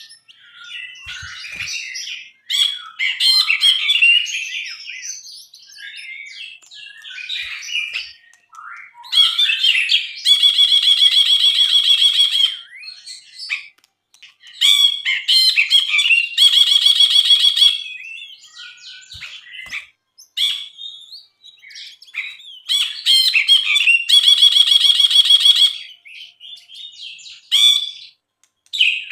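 Brinji (a bulbul) singing continuously: varied chattering, warbling phrases broken by three long, loud, rapid buzzy trills of one to two seconds each.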